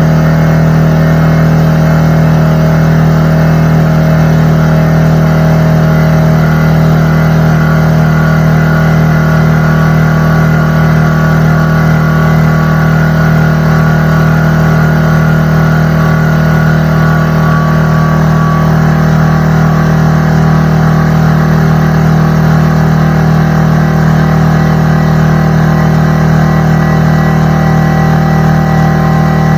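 McGraw 21-gallon air compressor running steadily and loudly, its motor and pump giving an even hum with a stack of steady tones above it.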